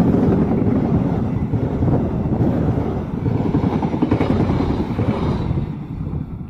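Diesel-hauled passenger train passing with a loud low rumble, fading away near the end.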